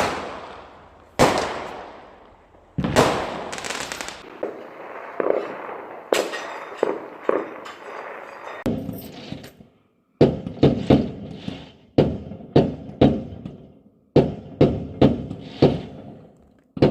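Fireworks going off: a few loud bangs, each followed by a long echoing rumble, then crackling, then quicker runs of sharp bangs several to a second.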